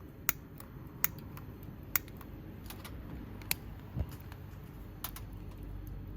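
Sharp, light clicks and taps of cooking utensils during camp food prep, roughly one a second, with a single dull thump about four seconds in.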